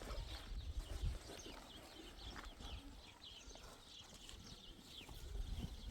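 Livestock moving about, with scattered hoof clops and knocks. Short high chirps repeat throughout.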